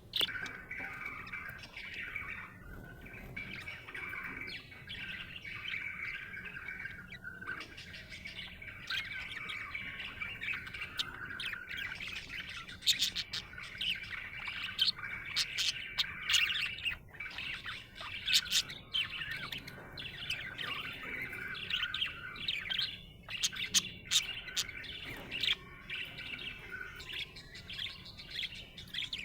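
Budgerigar chirping and warbling: a continuous chatter at first, then sharper, quick chirps come in thickly from about twelve seconds in.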